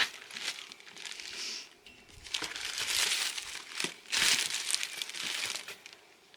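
Crinkling and rustling in a few bursts, the longest about halfway through, as flower bulbs are handled for potting.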